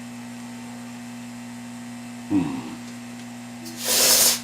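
Freeze spray (aerosol circuit chiller) hissing in one short burst of about half a second near the end, as it cools a chip on the monitor's circuit board. A steady mains hum runs underneath, and a brief sound falling in pitch comes about two seconds in.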